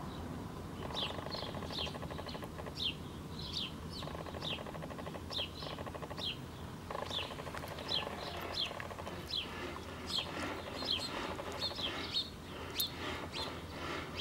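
Small songbirds chirping: short, sharp chirps that drop in pitch, repeated about once or twice a second, with a faint buzzing rattle in a few stretches.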